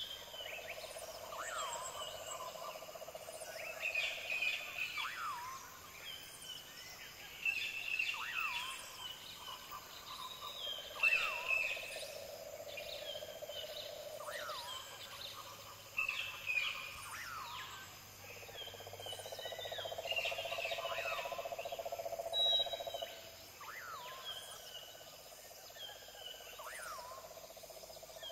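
Bird calls: repeated short chirps and quick falling whistles, over a buzzy trill of a few seconds that starts and stops about four times.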